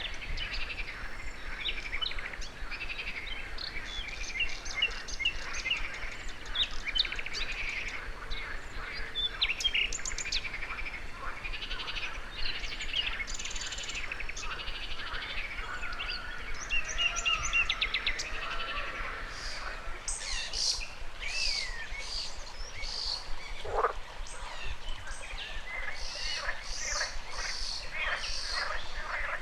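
Birds chirping and trilling with frogs croaking, over a steady rush of running river water, and one short falling call about two-thirds of the way through.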